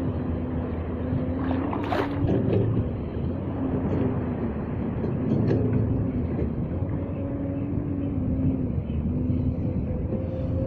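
Big waves surging and breaking on a shallow reef shore, with wind on the microphone and a steady low hum underneath. A sharper splash comes about two seconds in.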